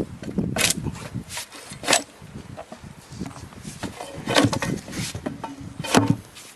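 Homemade metal hive tool scraping and prying wooden beehive frames loose: several short, sharp scrapes, over honeybees buzzing.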